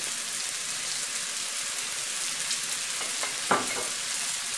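Cabbage, carrot, glass noodle, shrimp and pork stir-fry sizzling steadily in a hot wok as oyster sauce is added, with a single short sharp knock about three and a half seconds in.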